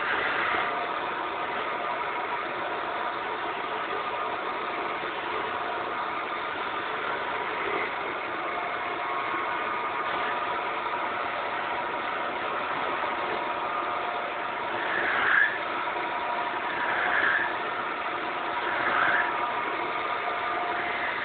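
Wood lathe running steadily, its motor humming with several steady tones, with three short louder swells in the last few seconds.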